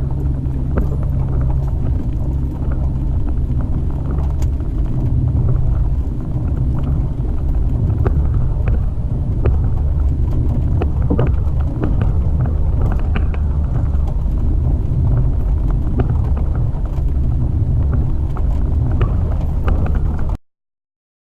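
Jeep Wrangler TJ driving slowly along a rough forest track: a steady low engine and drivetrain rumble with occasional knocks and rattles from bumps, cutting off suddenly near the end.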